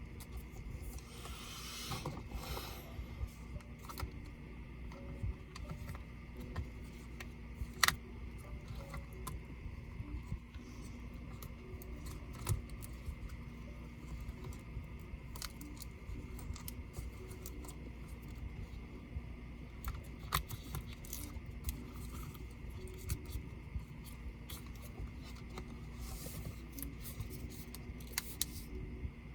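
Scattered small clicks and taps of laptop parts and a small tool being handled while a Dell Vostro 13 5310 laptop is worked on, with one sharper click about eight seconds in and brief rubbing sounds about a second in and near the end.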